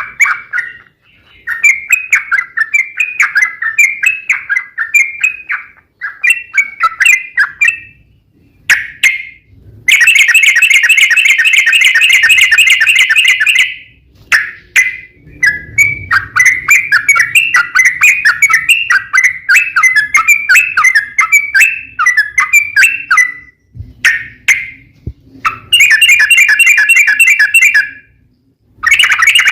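Sooty-headed bulbul (trucuk) song: bursts of quick chattering notes with short pauses between them, and long, very fast rolling trills, one about a third of the way in and two shorter ones near the end.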